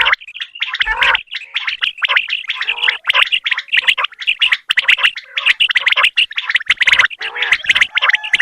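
Common quail (batair) calling in a rapid, rattling chatter, almost without pause.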